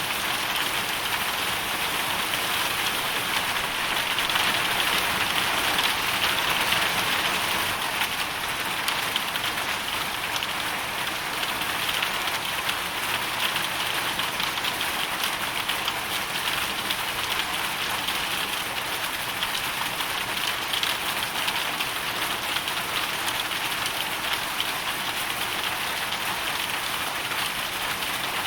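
Hail storm: hailstones and rain pelting a hard surface in a dense, steady patter of many fine ticks, swelling slightly a few seconds in.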